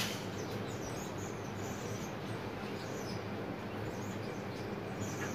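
Faint, scattered high chirps of small birds over a steady low hum, with a brief click at the very start.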